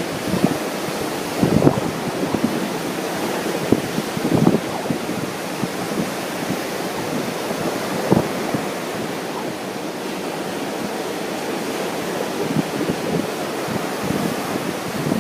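Ocean surf washing steadily under strong wind. Gusts buffet the microphone with low rumbles about a second and a half in, around four and a half seconds and about eight seconds in.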